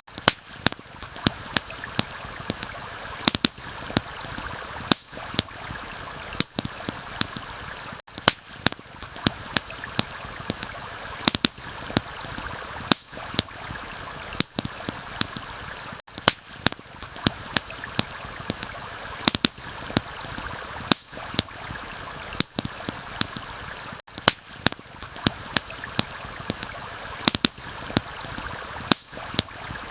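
Steady rush of a flowing stream, overlaid with frequent sharp, irregular pops and crackles from a wood campfire.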